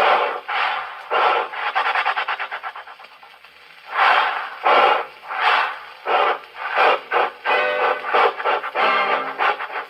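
Dance band imitating a steam train on an old 78 record: rasping, rubbed percussion chuffing in rhythm. A quick run of chuffs fades out about three seconds in, slower heavy chuffs follow, and held band chords join near the end.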